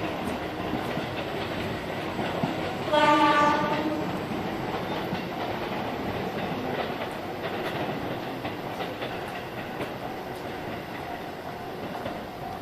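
Seibu old 101 series electric train running with wheel and rail noise, and one short horn blast about three seconds in.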